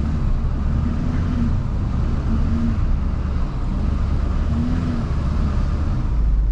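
Plow truck engine running steadily while pushing snow, with a continuous low hum and a rushing noise over it, its pitch wavering slightly.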